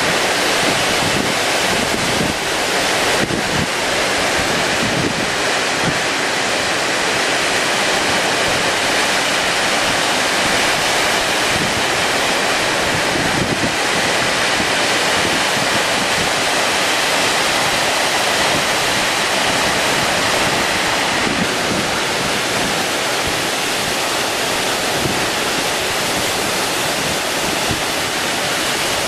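Storm-force wind blowing over heavy surf on an open sea coast: a loud, steady rush of wind noise and breaking waves.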